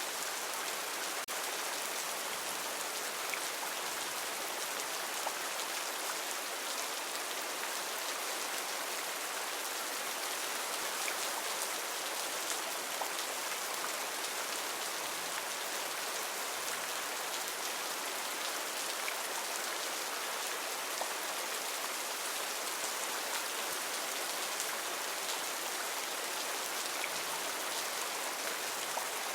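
Heavy rain falling steadily on rainforest foliage, a dense even hiss with the odd sharper drop tick.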